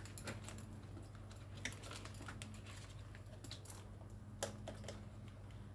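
Faint, irregular small clicks and taps from a multimeter and its probes being handled and set up, with a steady low hum underneath. The loudest tap comes a little over four seconds in.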